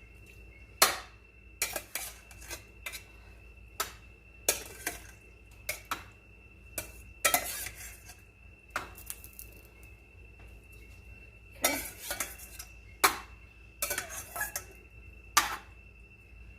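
A utensil clinking and scraping against cookware as cooked vegetables are spooned from a pan into a baking tray: irregular clinks and short scrapes, roughly one every second or two.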